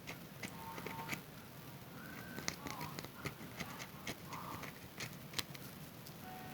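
Wet hands working a bar of Zest soap into a lather: irregular wet clicks and squelching pops, with a few faint short squeaks.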